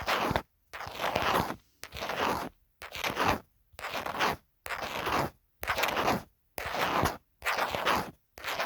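A phone case being scratched in slow, even strokes, about one stroke a second, each lasting about half a second with a short silence between.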